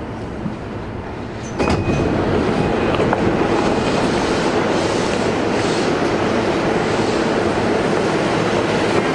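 Interior running noise of a JR East E233-5000 series electric train: a steady rumble of wheels on rail with some clickety-clack. About a second and a half in it gets suddenly louder with a click, then runs on steadily.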